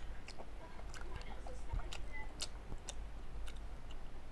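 Chewing a mouthful of food with the mouth closed, close to a headset microphone: scattered wet clicks and smacks.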